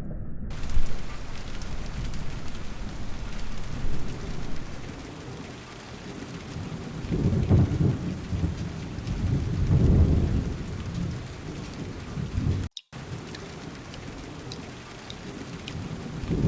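Steady rain pouring down, with low thunder rumbling twice around the middle. The sound cuts out for an instant near the end.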